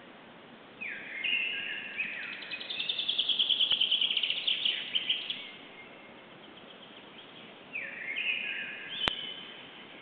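A songbird singing two phrases. The first starts about a second in, with a few gliding notes that run into a fast, loud trill lasting a few seconds. A shorter phrase of gliding notes comes near the end, with a sharp click near the end.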